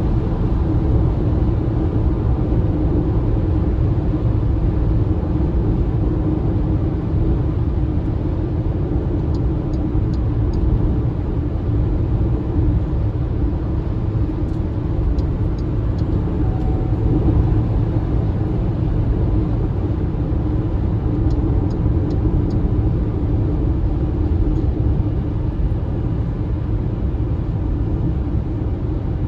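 Steady road and tyre noise with a low rumble from an MG ZS EV electric SUV driving along.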